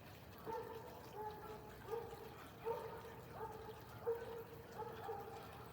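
An animal calling over and over, a short pitched note with a quick rise at its start, about eight times, one every three-quarters of a second.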